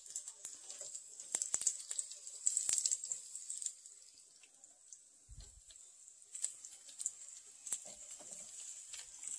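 Faint sizzling and crackling of onions frying in olive oil and butter in a frying pan, with scattered small clicks and taps as floured slices of deer heart are handled and laid into the hot fat.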